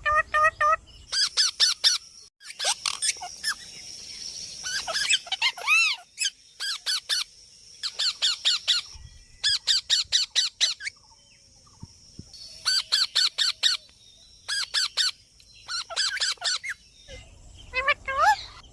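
Parrot squawking in repeated bursts of rapid harsh calls, several a second, with a few rising-and-falling whistled calls between the bursts.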